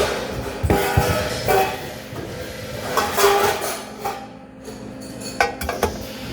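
Metal objects clinking and clanking, several separate knocks each with a short ring, over a steady hum.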